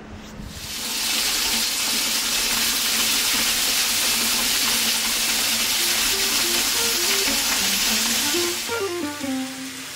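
Food sizzling in a hot pan: a loud, steady hiss that builds over the first second and stops about nine seconds in.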